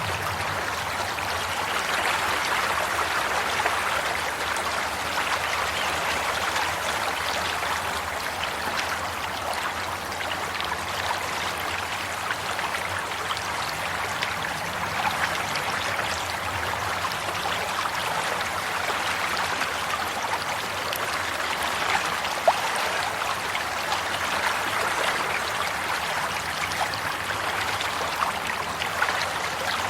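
Water flowing and trickling steadily, as of a stream, with a continuous burble and small irregular splashes.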